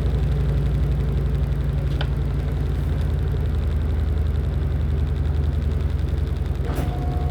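LG top-loading washing machine running with a steady low motor hum. A higher whine comes in near the end.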